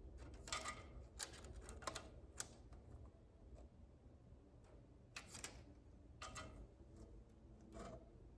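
Faint, irregular clicks and taps, a few at a time, over a low steady hum: quiet handling of tools or parts.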